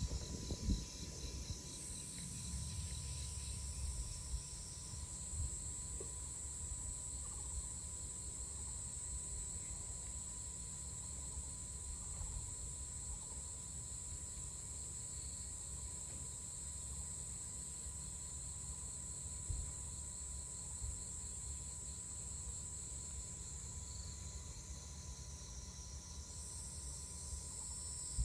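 A steady, high-pitched insect chorus trilling, its pitch stepping up about two seconds in and dropping back near the end, over a low rumble.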